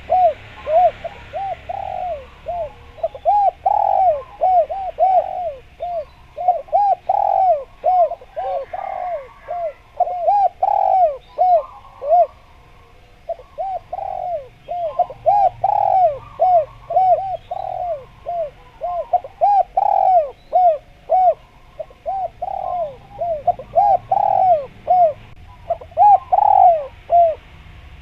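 Spotted dove (derkuku) cooing persistently: repeated phrases of short, rapid, arched coos, with brief pauses between phrases.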